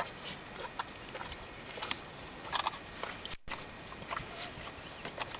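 Thoroughbred horse licking and mouthing a truck's cloth seat cover: scattered short wet smacks and clicks, the loudest a quick cluster about halfway through. A brief cut-out in the sound follows it.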